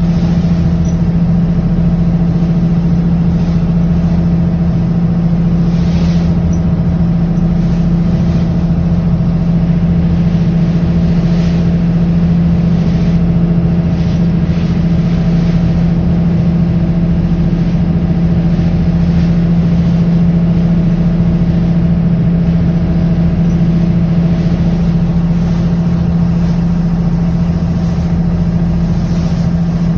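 A boat engine running at a steady speed, a constant low hum with no change in pitch.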